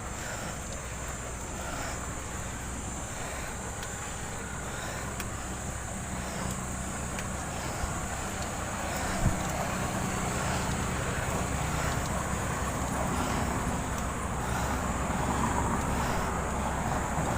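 Motor vehicle engine running nearby on the road, its sound slowly growing louder, over steady outdoor road noise. A single sharp knock about nine seconds in.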